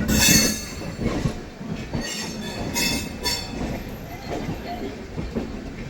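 Poorva Express coach running at speed: a steady rumble of wheels on track, with short bouts of clatter and metallic squeal.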